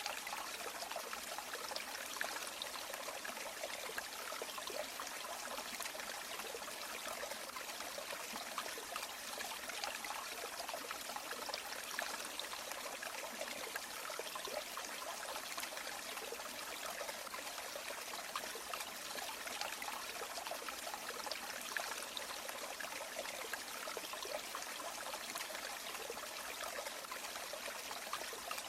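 River water flowing steadily: an even, continuous rush of small splashes, with little deep rumble.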